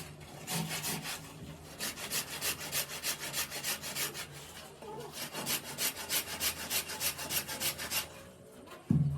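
A hand tool worked back and forth across wood, about five quick scraping strokes a second, in two runs with a short pause between them.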